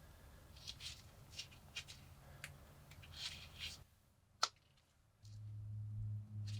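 A run of light metallic clicks and scrapes, like a small folding pocket knife being handled and its parts worked, then a single sharp click; a little past the middle a low steady hum starts.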